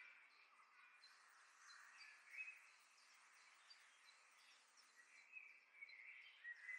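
Faint birds chirping, short scattered calls over a soft outdoor background hiss.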